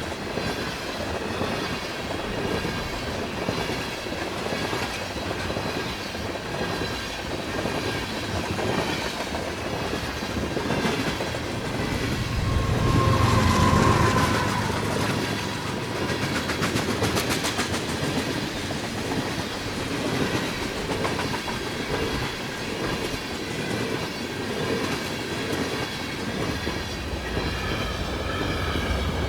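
CN freight train cars rolling past, wheels clacking steadily over the rail joints. It grows louder for a few seconds about halfway through, with a low rumble and a brief ringing tone.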